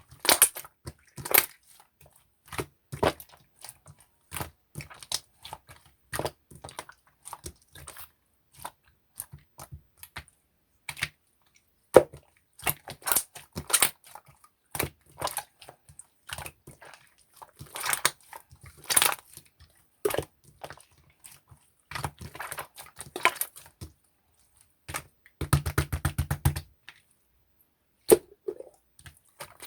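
Slime being squished and pressed by hand: irregular clicking and popping, with a quick run of rapid clicks about 25 seconds in.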